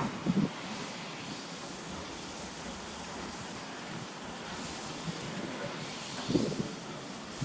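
Steady hiss of wind buffeting the microphone, with a short low bump just after the start and another about six seconds in.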